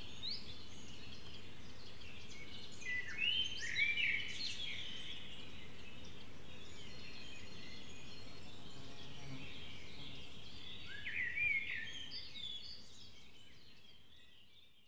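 Birds chirping and singing over a steady outdoor background hiss, with clusters of short rising and falling calls about three seconds in and again about eleven seconds in. The sound fades out near the end.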